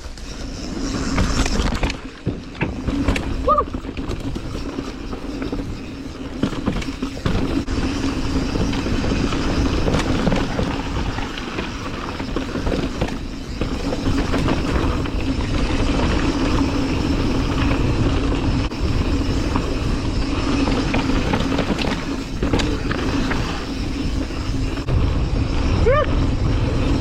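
Lapierre mountain bike descending a dirt bike-park trail at speed: tyres rolling on dirt, wind buffeting the camera's microphone, and the bike rattling and knocking over bumps, with a steady buzz underneath.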